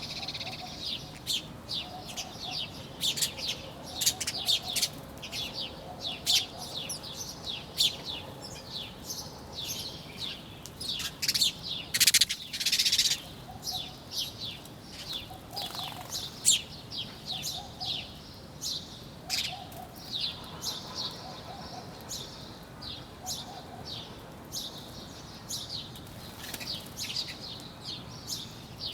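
Several small birds chirping busily, with many short, quick chirps overlapping and a louder flurry of calls about twelve seconds in.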